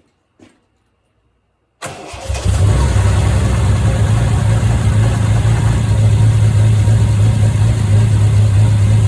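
Freshly rebuilt Triumph TR6 straight-six engine starting: it cranks briefly about two seconds in, catches within half a second and then runs steadily and loudly.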